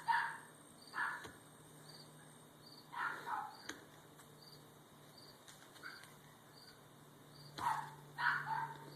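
A dog barking in short bursts, one or two at a time, with pauses of several seconds between them. A faint high chirp repeats about twice a second behind it.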